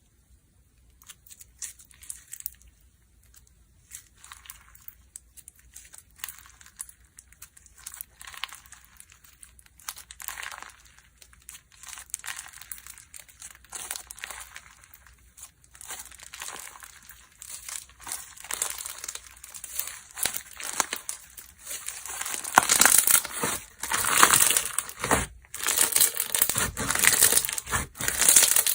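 Slime being squeezed and worked by hand, crackling and popping: sparse at first, then dense and much louder during the last several seconds.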